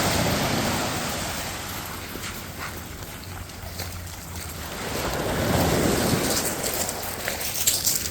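Waves breaking on the shore, the wash of surf swelling and fading twice, with wind blowing on the microphone.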